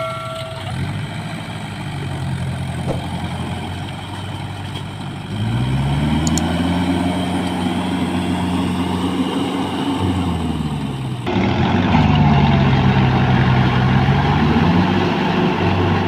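Deutz-Fahr Agrolux 50 4WD tractor's diesel engine idling, then revved up about five seconds in and held for several seconds before dropping back. After a sudden change near the middle it revs up and falls back once more.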